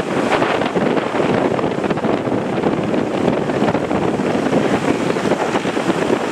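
Loud, steady rushing of strong wind buffeting the microphone, with sea surf beneath it.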